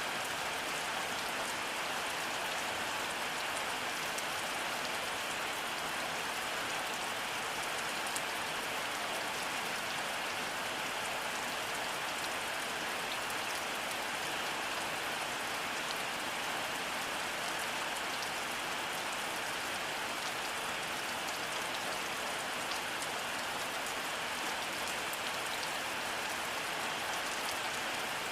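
Steady rainfall: an even hiss with faint scattered ticks of individual drops. No thunder is heard.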